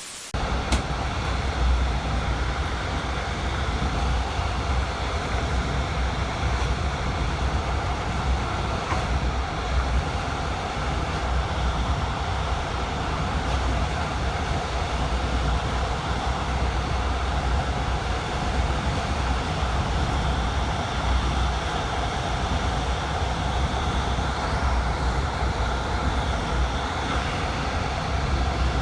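Passenger train running along the line, a steady rumble of wheels on the rails with an even noise above it.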